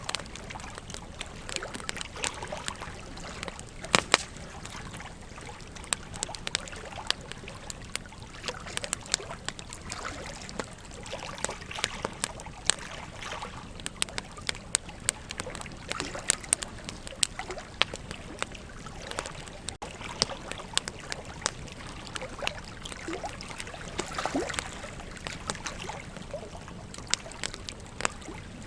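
Wood campfire crackling, with frequent irregular pops and snaps, a sharp loud one about four seconds in, over the steady rush of a flowing river.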